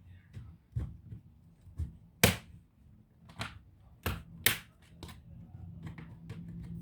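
Irregular sharp clicks and taps of tools and laptop parts being handled while an HP Pavilion 15 is taken apart, a few of them louder knocks, over a low steady hum.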